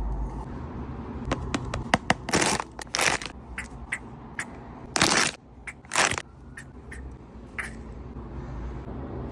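Packaging being handled and opened in an unboxing: a run of sharp crackles and crunching rustles, loudest about two to three seconds in and again around five to six seconds, over a steady low hum.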